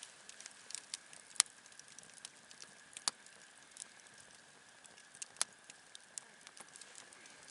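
Wood campfire crackling, with irregular sharp pops; the loudest pop comes about one and a half seconds in.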